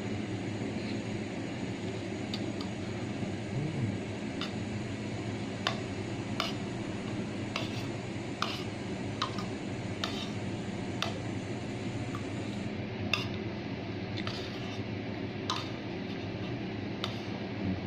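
Eating utensils clinking and scraping against a plate, a string of short sharp clicks at uneven intervals, over a steady background hum.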